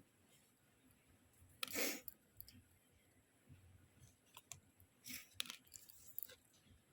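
Packaging and small items being handled: a short rustle about two seconds in, then scattered light clicks and taps.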